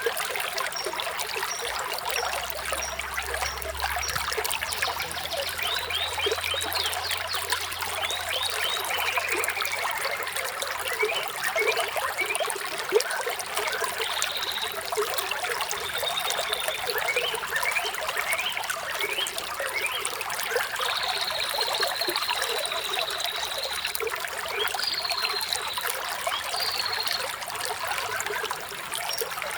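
Water trickling and babbling steadily, with small birds chirping and whistling over it, including a sustained whistled phrase about two-thirds of the way through.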